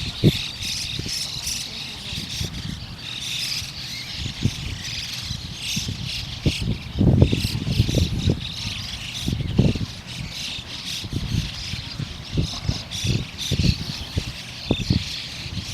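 A flock of white-cheeked starlings chattering continuously while bathing together, with irregular splashing from the birds in the water.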